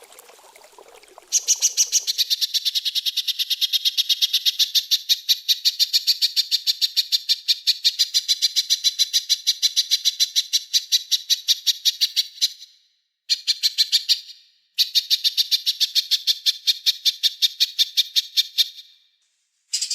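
A small songbird's fast, high-pitched chattering trill, about five even notes a second in long unbroken runs with two or three short pauses, played as a bird-training song recording. It starts about a second in, after a faint trickle of water.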